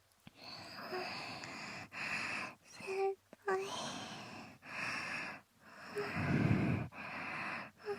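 Close-up binaural ear-licking sounds: wet tongue and mouth noises against the microphone's ear, in a series of strokes roughly one a second with short breaths between them. Small squelching squeaks are mixed in, and there is a heavier, deeper wet smack about six seconds in.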